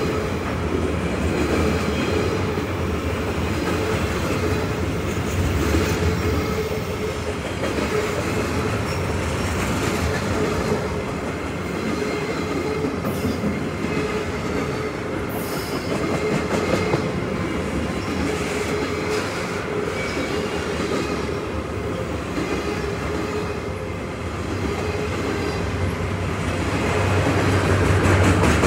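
Flatcars loaded with long steel rail rolling past on the track: a steady rumble of wheels on rail with a thin steady whine from the wheels over it, growing louder near the end.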